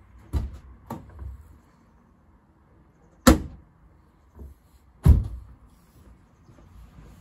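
Four sharp thuds of doors being shut, the loudest two about three and five seconds in.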